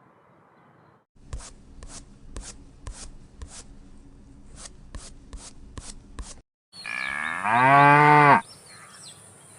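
A run of about ten sharp clicks, roughly two a second, over a low hum. After a short gap a cow moos once, loudly, for about a second and a half.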